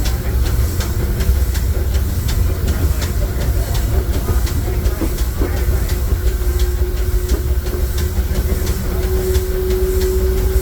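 Disneyland Railroad steam train running, with a heavy low rumble and a regular clicking about three times a second. A steady tone comes in about halfway through and grows louder toward the end.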